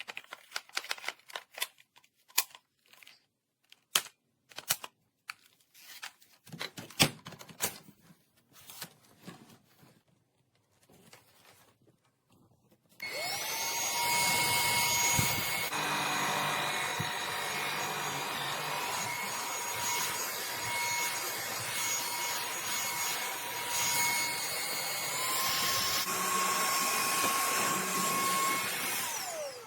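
Sharp plastic clicks and knocks of the cordless stick vacuum being handled. About 13 s in, its motor switches on with a rising whine and runs steadily, the pitch shifting a little partway through, and it winds down at the very end.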